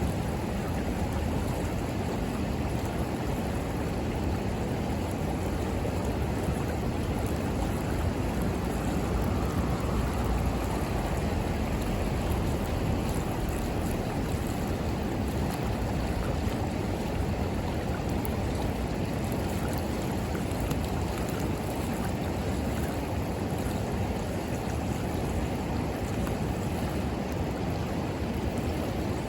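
Steady rushing of a river flowing past, with faint occasional crackles from a bonfire.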